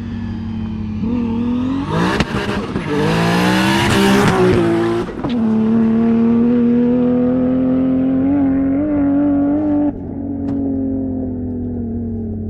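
Nissan Silvia S15 drift car's engine revving hard. About two seconds in the revs climb steeply under a loud hiss. They dip briefly, are held high and steady for about four seconds, then cut off suddenly and wind slowly down.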